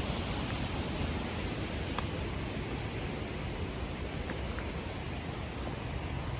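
Steady outdoor hiss with some low rumble, with a few faint ticks.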